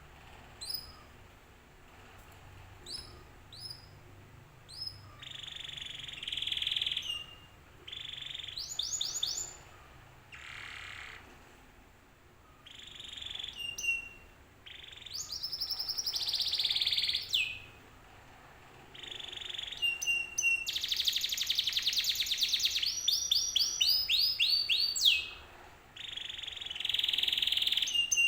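Domestic canary singing: short, quick falling whistles at first, then buzzy trills and long, fast rolled phrases that grow louder and denser in the second half.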